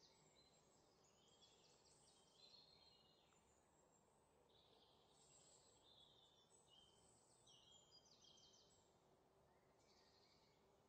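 Near silence, with faint bird chirps and short trills high in pitch recurring every second or two.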